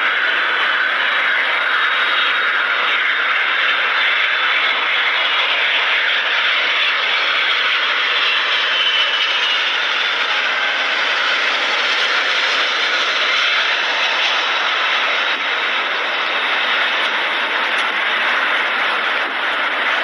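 Turbofan jet engines of a Boeing C-17 Globemaster III transport aircraft running with a steady, even rush of jet noise, a faint whine drifting in pitch over it during the first half.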